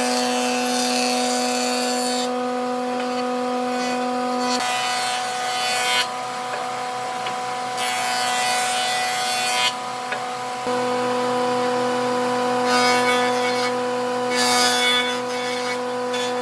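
An electric power tool working wood: a steady motor hum with a hiss of cutting or abrading that comes and goes in passes. The hum changes about four and a half seconds in and returns about eleven seconds in.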